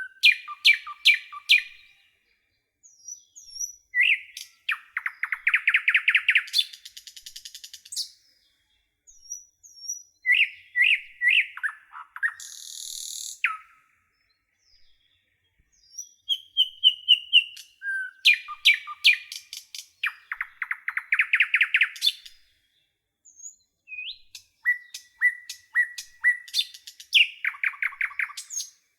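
A songbird singing in phrases of rapid chirps and trills, each phrase a few seconds long with short pauses between them.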